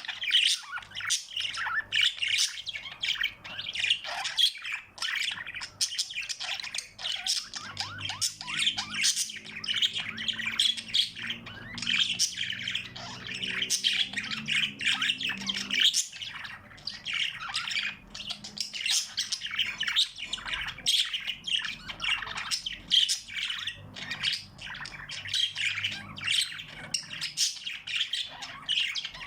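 Many small pet birds chirping and squawking together, a dense, unbroken chatter of short high calls.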